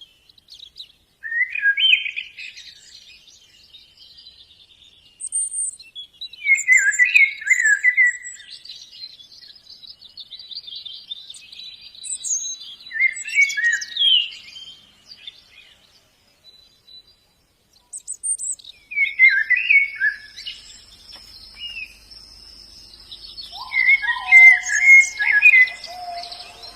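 White-eye (pleci) singing: short bursts of quick, twittering notes repeated every five or six seconds, with a lower whistled phrase near the end. A steady high-pitched drone comes in about two-thirds of the way through.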